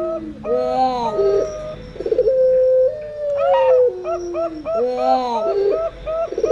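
Zebra doves (perkutut) and puter doves cooing together. Long held coos step down in pitch under quicker trilled, bubbling notes, with the pattern repeating about every three seconds.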